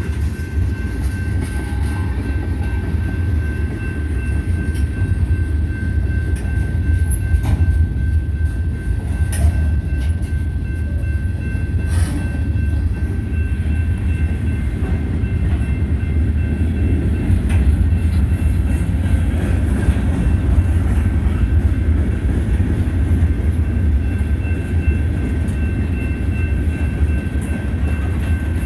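Manifest freight train rolling past: a steady low rumble of railcar wheels on the rails, with a faint steady high-pitched tone over it and a few sharp clicks of wheels over rail joints.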